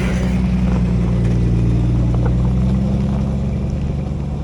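Off-road 4x4 engine running under load, its pitch rising slightly and then holding steady.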